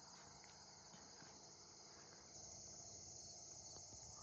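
Faint steady chorus of crickets, a high continuous trill that swells slightly a little past halfway.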